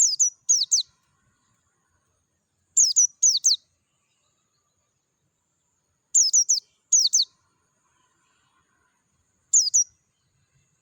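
A white-eye (pleci dakun) calling: short, high, thin notes that slide downward, given in quick pairs every few seconds.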